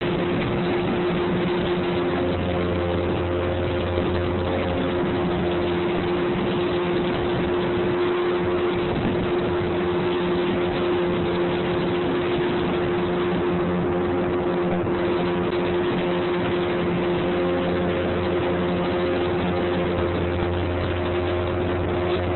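Motorboat engine running steadily, a constant low hum of several steady tones under an even hiss.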